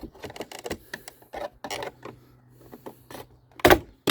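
Hands handling and wedging parts into place behind a car's rear light: a run of small clicks and rustles, with one louder knock near the end.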